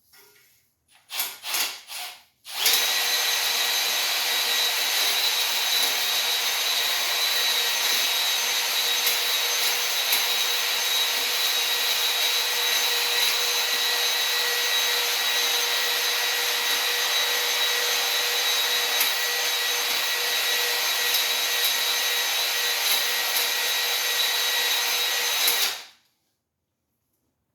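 Electric drill spinning a cylinder hone in an oiled cylinder bore of a Ford 289 V8 block. The drill is blipped three times, then runs steadily for about twenty seconds and stops near the end.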